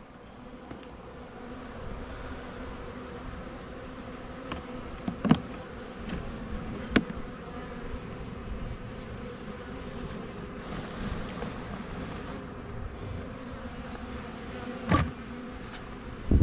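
Honey bee swarm buzzing in a steady, even hum, the bees fanning at the hive box because the queen is inside. Three short sharp knocks cut through it.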